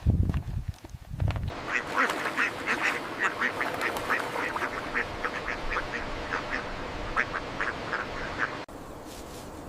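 A few low thumps, then a flock of birds giving a rapid run of short, repeated calls, several a second, which cuts off abruptly near the end.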